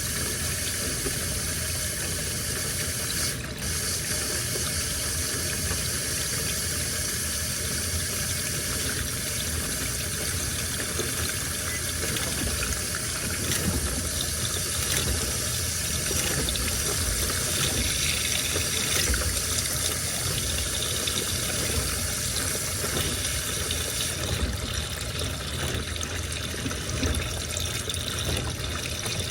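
Washing machine taking in water: a steady rush of water running into the drum, with a brief dip about three seconds in.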